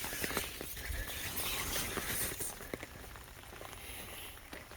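Light rain falling, a steady patter with scattered ticks of individual drops.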